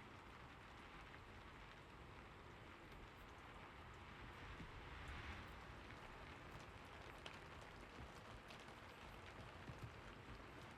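Faint, steady rain, with scattered light drop ticks and a slight swell about halfway through.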